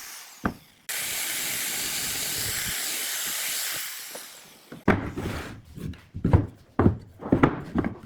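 A steady hiss for about three seconds, then a quick run of irregular knocks and clatters.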